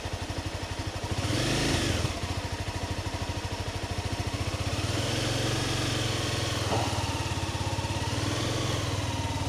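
Honda CBR300R single-cylinder engine running with an even pulsing beat. It picks up briefly about a second in, then settles and runs steadily, a little fuller, for the second half.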